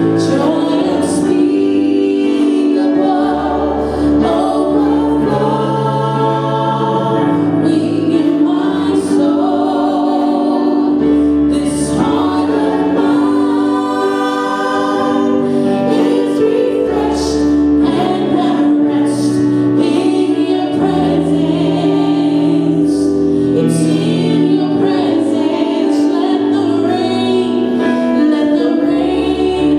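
Church praise and worship team singing a gospel worship song together as a choir, over a steady instrumental backing with changing bass notes and regular cymbal strikes.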